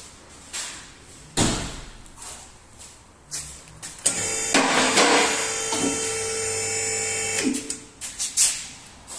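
A few knocks and clatters of tools, then a power tool's motor runs steadily for about three seconds and stops suddenly.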